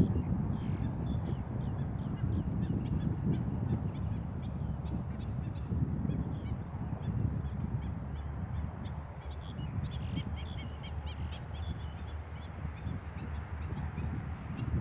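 Steady low rumbling noise with many short, faint high chirps from birds scattered through it, and a brief cluster of calls about ten seconds in.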